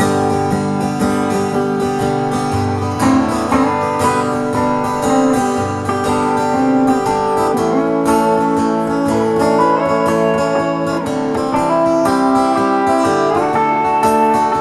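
Instrumental break in a country song: guitars playing, with acoustic guitar strumming under sustained melody notes.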